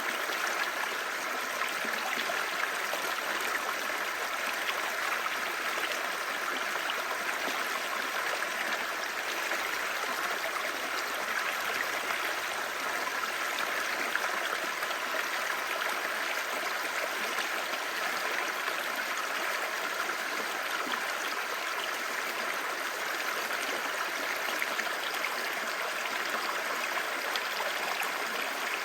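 A clear stream babbling steadily, an even rush of flowing water with no pauses.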